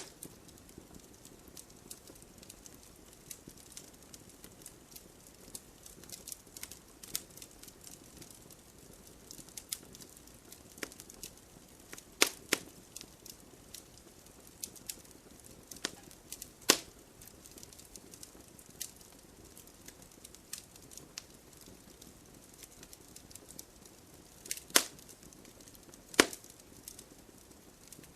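Wood fire crackling: a soft hiss with irregular small ticks and a handful of sharp, loud pops scattered through.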